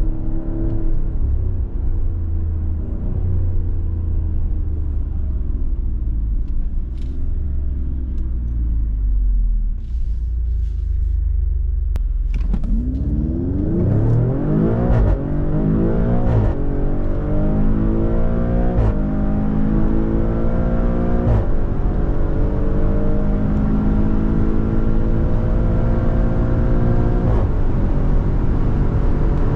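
Maserati Grecale Trofeo's twin-turbo V6 first runs with a low, steady rumble, then pulls hard from about halfway in. Its pitch climbs and drops back at each upshift, five times, with each gear lasting longer than the one before.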